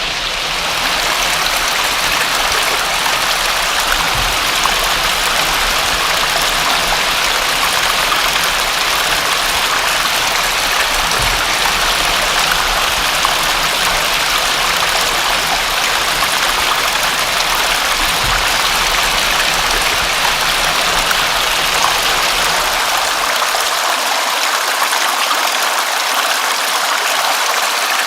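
Steady rush of water, an even hiss that grows a little louder and brighter in the first second.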